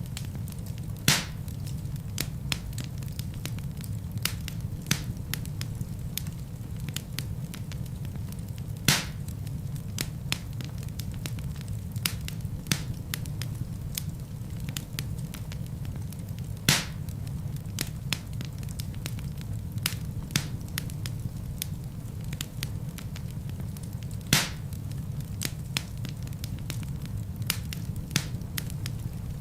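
Wood fire in a fireplace crackling over a steady low rumble, with frequent small snaps and four louder pops about every eight seconds.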